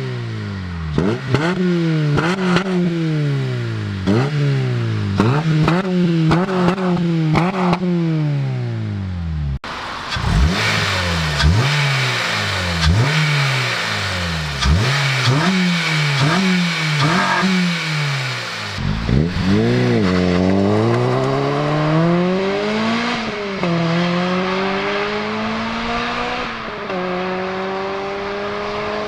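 Honda Civic Type R EP3's four-cylinder engine through a Megan Racing aftermarket muffler, revved in quick blips about once a second, with an abrupt cut about ten seconds in. For the last ten seconds it pulls in long rising runs, dropping in pitch twice, like upshifts under acceleration.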